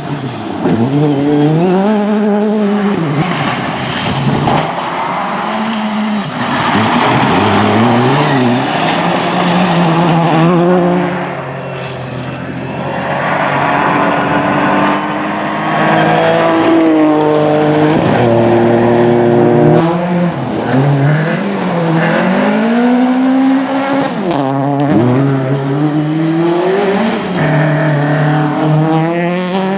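Rally car engines at race pace, revving hard and climbing in pitch through the gears, with sharp drops at each shift and each lift of the throttle, again and again.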